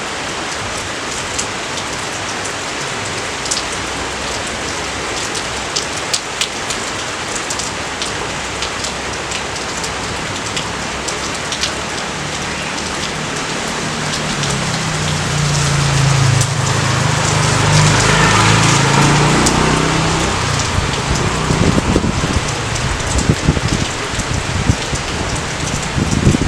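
Steady rain falling over rice paddies, with the sharp ticks of single drops landing close by. A low rumble swells and fades about halfway through.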